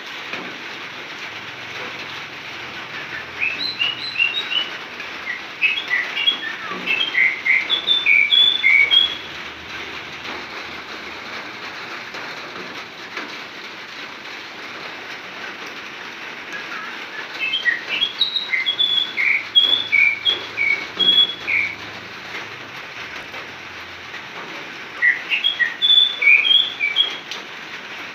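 A murai, a Copsychus songbird, singing in three bouts of varied short whistled notes, about six, five and three seconds long, with a steady hiss between them.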